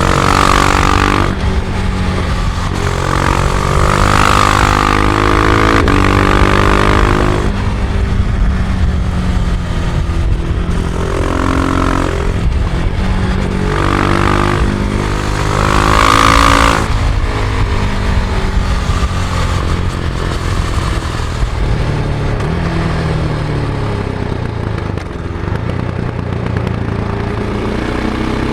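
Husqvarna Vitpilen 701's single-cylinder engine under way on stock exhaust, its pitch climbing in several surges with breaks between them as it pulls through the gears. In the second half it runs lower and steadier, with wind rush over the bike.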